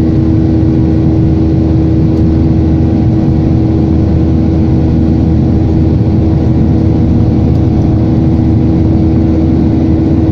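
Airliner cabin noise: the jet engines running steadily at high power, heard from inside the cabin as a loud, even drone with a constant hum.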